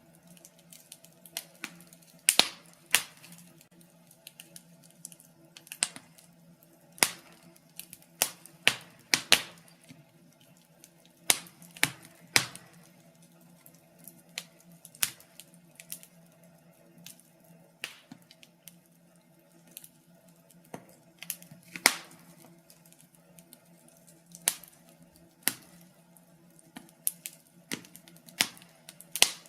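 Wood fire in a fireplace crackling: irregular sharp pops and snaps, about one or two a second, over a faint steady low hum.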